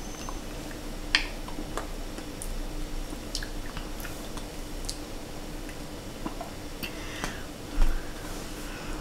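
A person chewing and smacking on a mouthful of ice-cream dessert, with scattered small wet clicks. There is one dull thump near the end.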